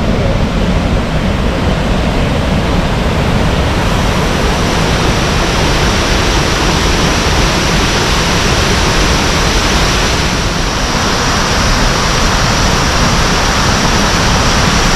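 Waterfall pouring, a loud steady rush of falling water that grows brighter about a quarter of the way in.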